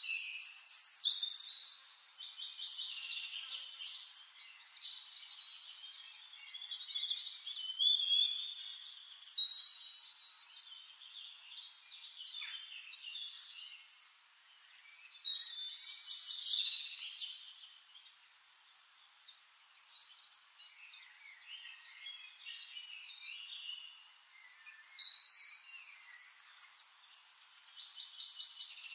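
Songbirds singing, several overlapping chirping and trilling songs, with louder phrases near the start, around 8 to 10 seconds in, around 15 to 17 seconds in and around 25 seconds in.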